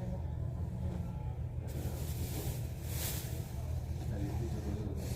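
Steady low rumble of a moving train heard from inside the carriage. About two seconds in, a hiss joins it, swells, and cuts off near the end.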